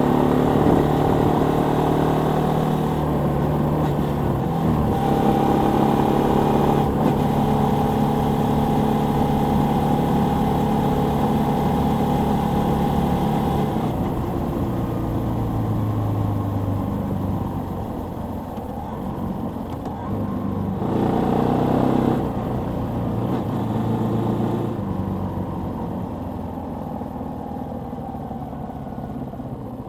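Suzuki Volty 250 (TU250) single-cylinder four-stroke engine running, loud and steady for about the first half. Then its note falls and quietens as the throttle eases off, with a brief rise a little past two-thirds through, before it fades lower near the end.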